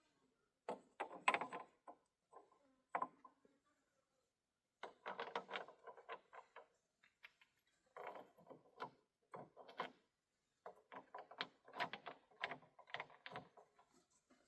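Irregular clusters of short knocks and clatters, hard objects being handled and set down, with brief gaps between.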